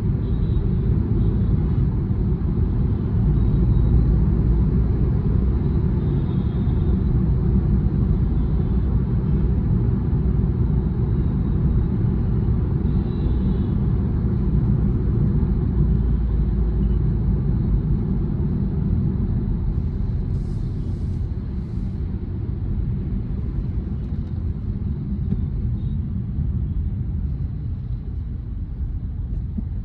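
Steady low rumble of road and engine noise inside a car cruising on a highway. Two brief high hisses come about two-thirds of the way through, and the rumble eases slightly after that.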